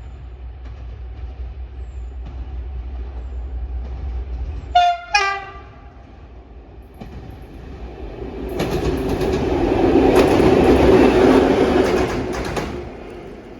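Train horn sounding two short notes, a higher one then a lower one, about five seconds in. Then a train passes with a rumble and wheel noise that swells and fades over about four seconds.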